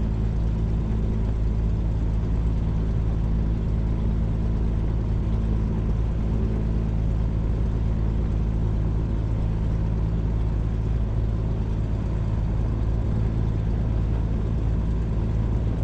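Pitts Special aerobatic biplane's piston engine and propeller running steadily at low taxi power, a constant low drone with no change in speed.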